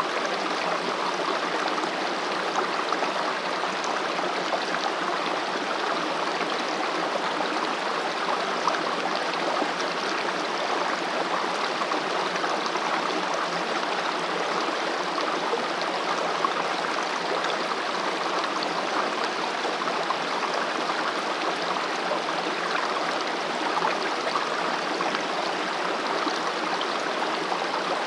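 Valley stream rushing steadily, an even, unbroken sound of flowing water.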